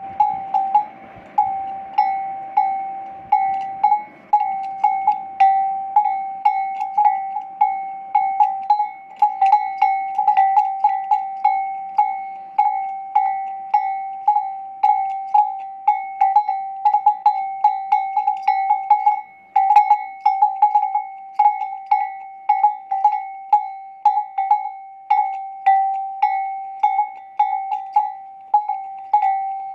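A camel's metal neck bell clanking irregularly, about two strikes a second, each one ringing briefly on the same clear note.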